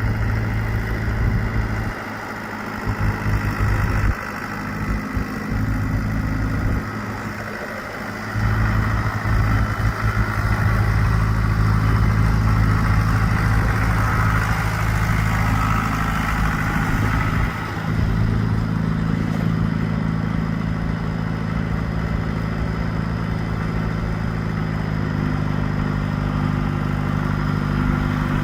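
John Deere tractor engine running at a steady idle. Near the end the note shifts slightly.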